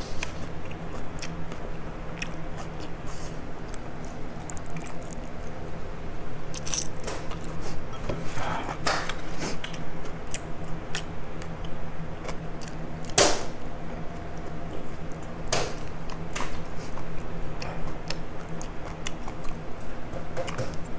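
Close-miked chewing, sucking and small wet mouth sounds of a man eating chicken feet by hand, with a few louder sucks scattered through, over a steady low hum.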